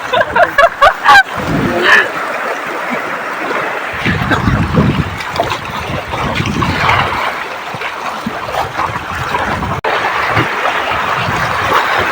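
River water rushing and splashing around a rafting boat, with short shouts or calls in the first second.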